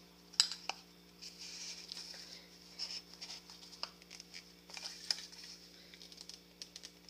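Scattered light clicks and taps from handling a spray paint can, over a steady low electrical hum.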